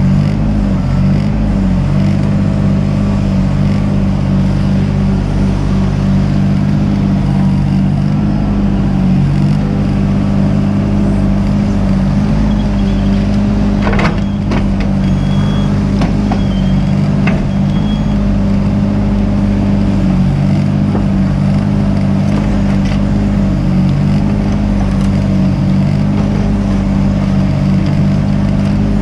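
Mini excavator's diesel engine running steadily, its pitch wavering near the start, with a few sharp knocks about halfway through.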